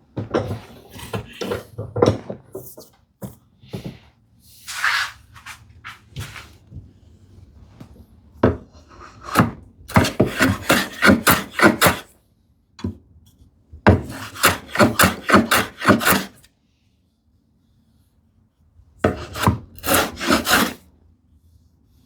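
Hand tool abrading wood in quick back-and-forth strokes, in several runs of a few seconds each with short pauses between: the smoothing of curved tambour door grooves in a wooden frame.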